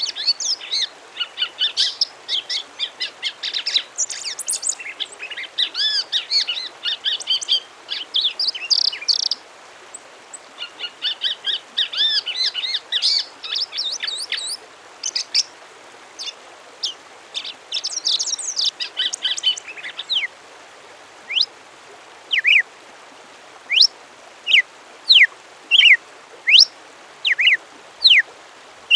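Songbird song: rapid, varied warbling and trilled phrases for about the first twenty seconds, then a run of separate short, sharp whistled notes, each a quick upward or downward sweep, about one a second and louder.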